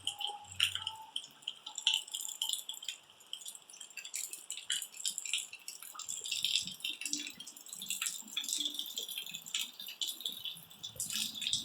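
Rain falling in drops, pattering as a dense, irregular run of small clicks and taps.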